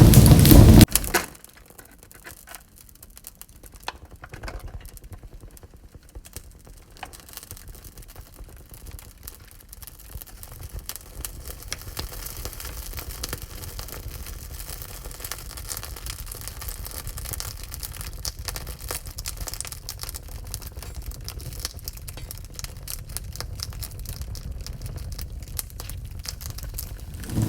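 Wood fire crackling in a wood-burning stove: many small pops and snaps over a faint low rumble. A loud rushing noise cuts off sharply about a second in.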